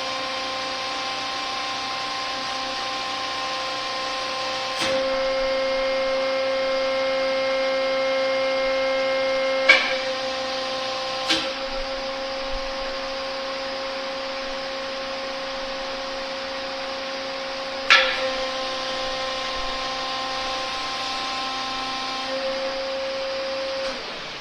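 Hydraulic pump unit running with a steady whining hum while a hydraulic cylinder is cycled and pressurised, with no load on it. The tone steps louder about five seconds in, sharp clicks come near ten, eleven and eighteen seconds in, and the pitch shifts again near the end.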